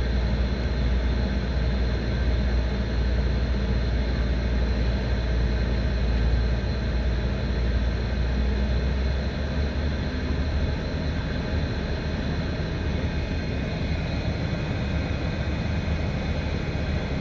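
Steady low rumble of a running vehicle, its deep drone shifting slightly about halfway through.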